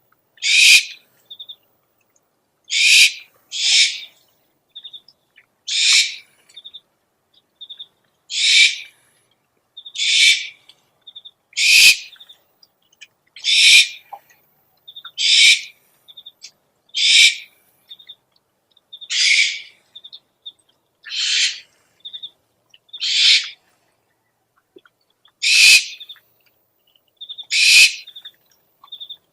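Owl lure recording: an owl's short, raspy screeching calls, repeated about every one and a half to two seconds, with faint quick high pips between them.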